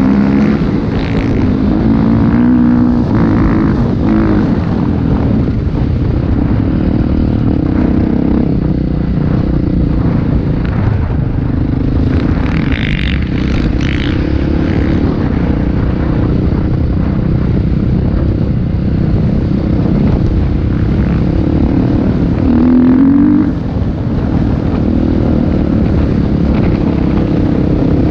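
Motocross motorcycle engines running loud and continuous, the pitch rising and falling as the throttles open and close.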